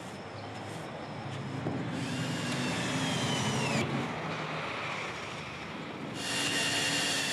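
Power drill boring holes through a pickup truck's bed: the motor whines, winds down with a falling pitch when the trigger is let go, then starts again, louder, near the end.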